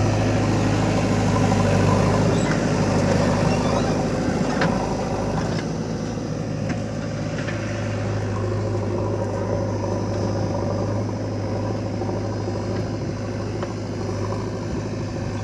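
Heavy diesel machinery engine running steadily, slightly louder for the first few seconds and then easing a little, with a few faint knocks.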